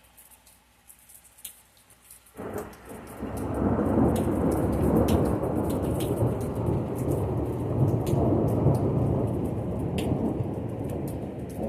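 A thunderclap breaking about two seconds in and rolling into a long, loud rumble that holds and eases only slowly. Raindrops tick steadily throughout.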